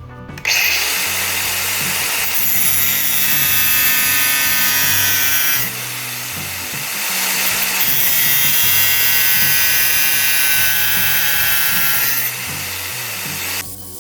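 Power tool cutting a notch into a metal exhaust pipe: a loud, high-pitched cutting whine that starts half a second in, eases off about halfway, picks up again and stops just before the end.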